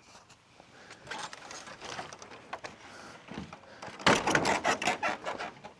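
Handling noise on a camera being adjusted: soft rustling, then about four seconds in a loud, fast run of clicks and rattles.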